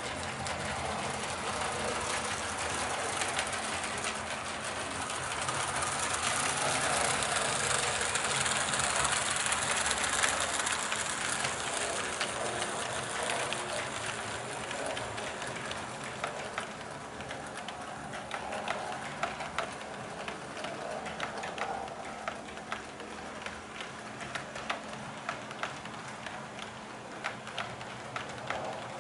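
HO-scale model train running on its track, a steady rolling hiss that swells for a few seconds. In the second half a run of sharp clicks from the wheels joins it.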